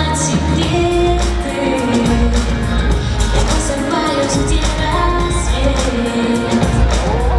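Pop song performed live over loudspeakers: a woman singing the melody over a backing track with a heavy, steady bass beat and drums.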